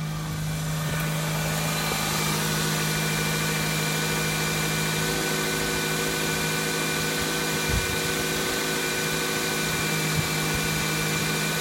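Pontiac Vibe's 1.8-litre VVT-i four-cylinder engine idling steadily during a run test, with two brief taps late on.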